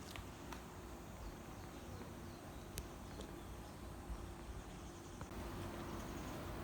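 Quiet outdoor ambience with faint steady insect chirring and a sharp click a little under three seconds in.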